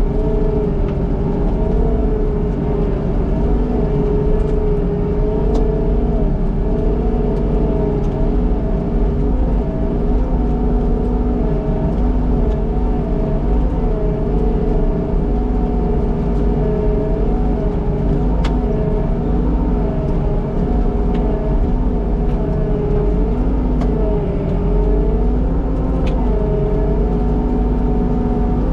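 Skid steer engine running steadily, its pitch sagging briefly now and then, with a few faint clicks.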